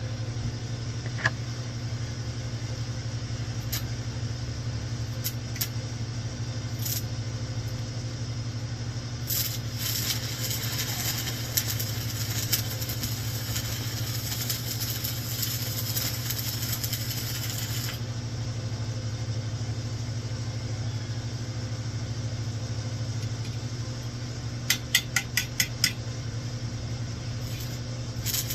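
Stick welding with an INGCO 220 A inverter MMA welder and a 6013 electrode at 80 amps: a few brief arc strikes, then the arc crackles and sizzles steadily for about eight seconds before cutting out. Near the end comes a quick run of about six sharp taps, all over a steady low hum. The welder judges 80 amps too strong for the work, burning it.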